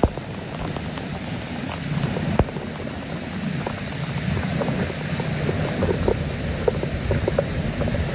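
Steady outdoor rushing noise with a low rumble and scattered small knocks.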